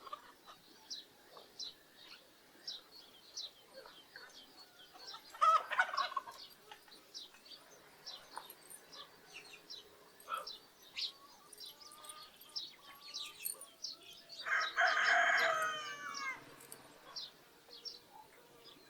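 A rooster crows once, about 15 seconds in: a long call that falls in pitch at the end. A short loud fowl call comes near 6 seconds, and small birds chirp throughout.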